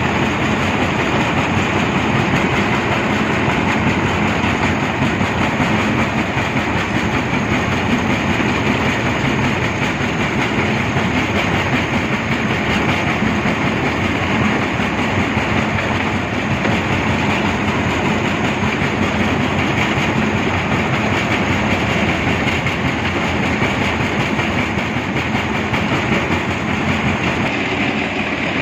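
Heavy machinery running steadily, with a continuous loud rattling clatter.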